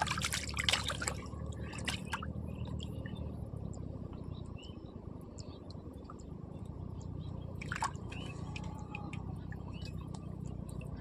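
Water splashing and dripping, with short splashes at the start, about two seconds in and near eight seconds, over a steady low hum.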